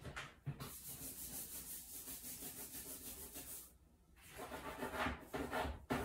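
Steady back-and-forth rubbing, like a brush scrubbing a surface, in two stretches with a brief pause a little before the four-second mark.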